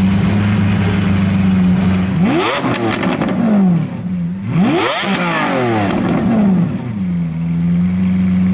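Lamborghini Aventador Roadster's V12, fitted with the factory sports exhaust, idling steadily, then revved twice in quick blips: the pitch shoots up and falls back each time, about two seconds in and again about four and a half seconds in. It settles back to idle near the end.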